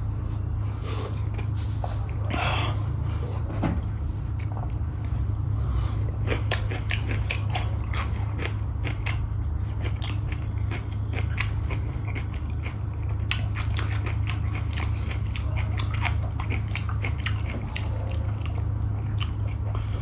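Close-miked mouth sounds of a person chewing and eating, with many short clicks and smacks, over a steady low hum.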